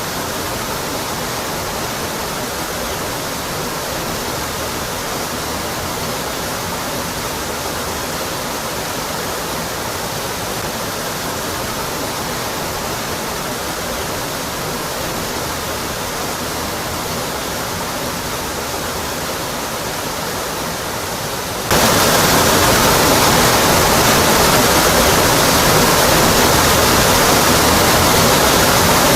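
Waterfall pouring steadily, an even wash of water noise with no separate events. A little over two-thirds of the way through it suddenly steps up louder and brighter, then holds steady again.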